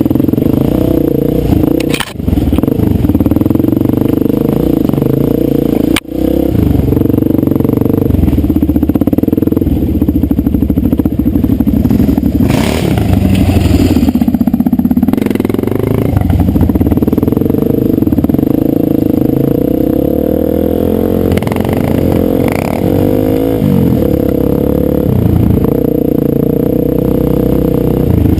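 Dirt bike engine running while being ridden, its note rising and falling with the throttle, with a slide down in pitch about 23 seconds in. The sound drops out for an instant about two and six seconds in.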